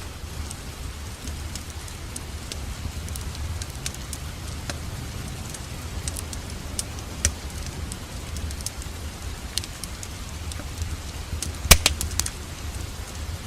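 Wood fire crackling in a fireplace over steady rain, with a low rumble and scattered sharp pops. A quick cluster of louder pops comes near the end.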